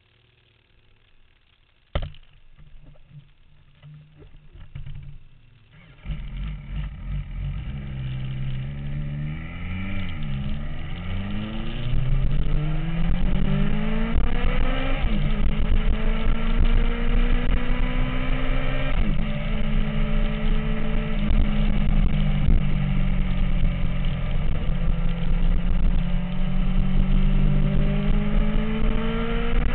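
MV Agusta F4 motorcycle's inline-four engine: a sharp click about two seconds in, then the engine comes in abruptly about six seconds in and runs on, its pitch rising and falling with the revs.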